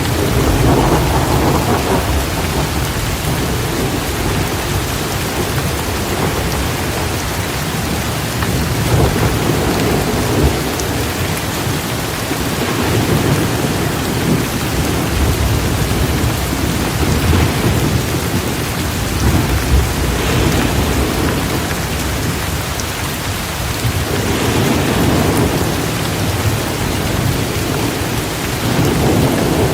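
Heavy, steady downpour hissing, with thunder rumbling low underneath in repeated swells every few seconds.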